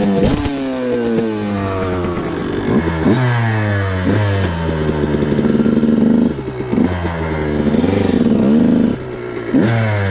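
Dirt bike engine revving hard as it pulls away. The pitch climbs and then drops sharply several times as the rider shifts up, with short throttle-off dips about six and nine seconds in.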